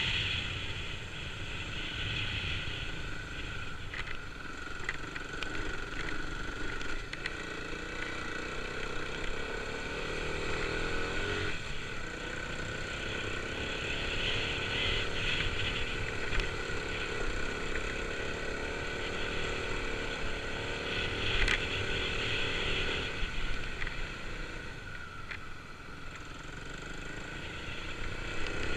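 Kawasaki KLX250's single-cylinder four-stroke engine running continuously as the motorcycle is ridden, its pitch rising and falling with the throttle.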